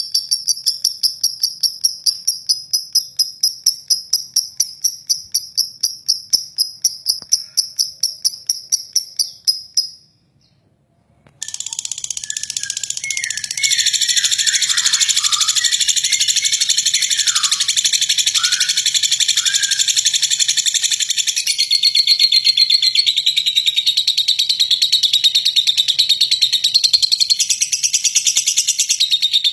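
For about ten seconds, a fast, evenly pulsed high chirping, then a second of silence. After that, a lovebird's long, harsh, unbroken chattering trill (ngeklek), with swooping lower notes for the first few seconds.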